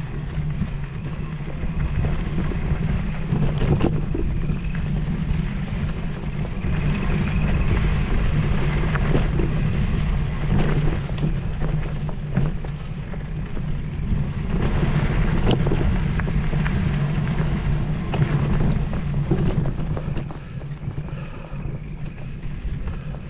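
Mountain bike riding singletrack: wind rushing over the microphone in a steady low rumble, with the bike clattering and ticking over rocks and roots.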